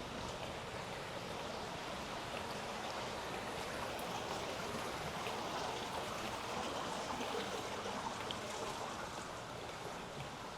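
Steady rush of running water from a stream or channel, swelling a little in the middle and easing slightly near the end.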